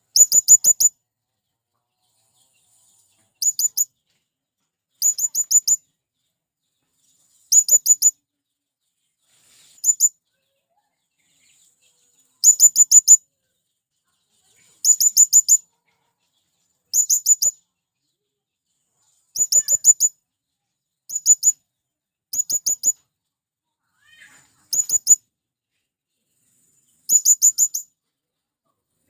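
Male blue-crowned hanging parrot (serindit) calling: short bursts of four or five rapid, very high-pitched shrill notes, repeated every two seconds or so with silence between.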